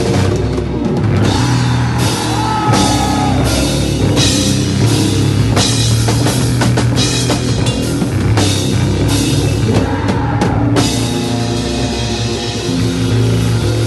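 Hardcore band playing live at full volume: distorted guitars and bass over a drum kit with crashing cymbals. About eleven seconds in the drums drop out and the guitar rings on alone.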